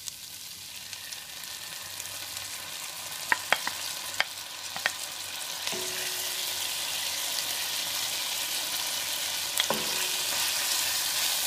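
Chicken pieces, onion and garlic sizzling in a hot metal pan while being stirred with a wooden spoon. A few sharp clicks of the spoon against the pan come a few seconds in, with one more near the end. The sizzle grows louder, with a step up about halfway as oyster sauce is poured in.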